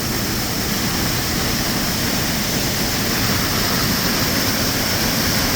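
Waterfall on a creek, its falling water rushing steadily.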